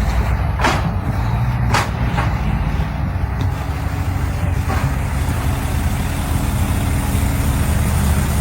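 Semi trucks' diesel engines running under heavy load as the trucks push against each other, a loud, steady low sound. Four short, sharp sounds cut through it in the first five seconds.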